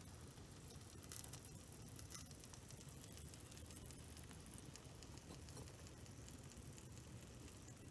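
Faint crackling of a campfire's coals, with scattered small ticks and a couple of slightly louder pops about one and two seconds in.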